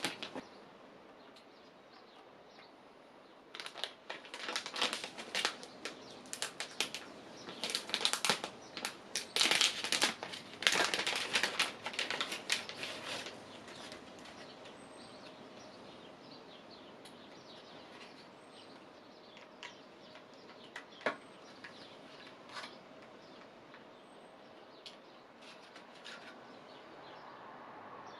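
Handling of computer parts and their packaging: dense rustling and clicking for about ten seconds, then only occasional taps and clicks.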